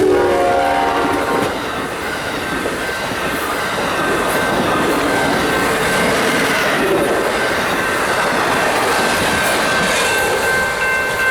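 Amtrak passenger train passing close by at speed. A horn blast from the GE P42DC locomotive fades out in the first second or so, then the steady rush and clatter of the passenger cars' wheels on the rails continues.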